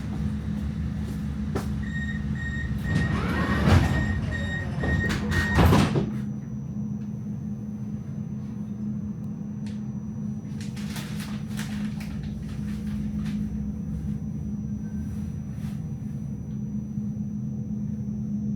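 Tram doors closing: a rapid run of high warning beeps for a few seconds, then two loud knocks as the doors shut. After that the tram's steady electrical hum, with a faint high whine.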